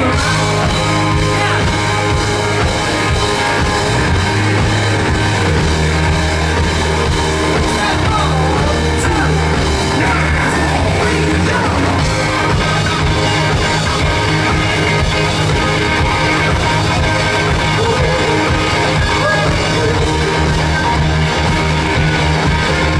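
Rock band playing live: electric guitars over bass and drums with a steady driving beat.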